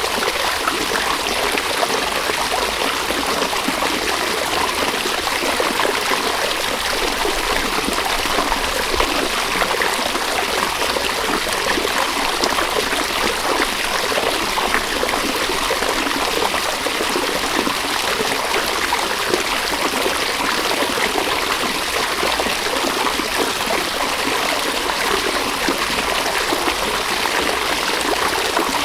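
River water running over stones, a steady babbling and trickling flow with no pauses.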